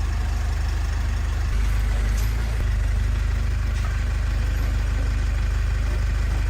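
ZS1115 single-cylinder diesel engine running steadily with a rapid, even beat, after its restoration.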